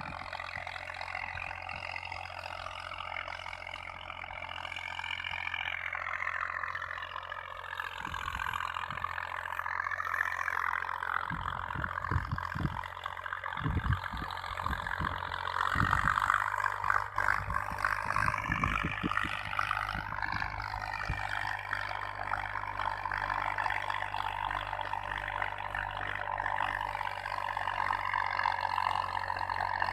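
Tractor engine running as it drives, its pitch drifting slightly up and down, with a run of short low thumps in the middle.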